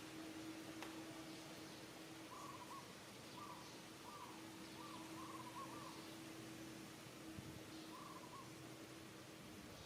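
Faint hooting animal calls, each a short group of two or three notes, repeated several times over a steady low hum.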